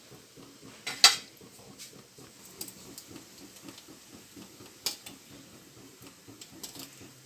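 Murukku press knocking against the pot as rice dough is squeezed into boiling water: a few sharp utensil clinks, the loudest about a second in and another near five seconds, with lighter taps between.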